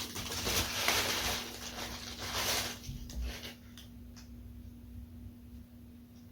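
Tissue paper rustling and crinkling in several bursts as a new pair of sneakers is unwrapped in its box. About three and a half seconds in it dies down to faint handling sounds.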